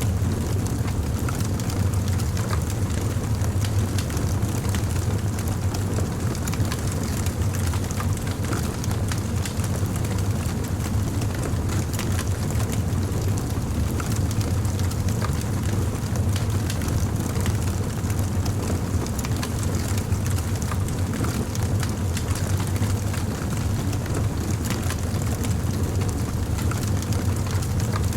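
Wood fire crackling: frequent small sharp pops and snaps over a steady low rumble of the flames.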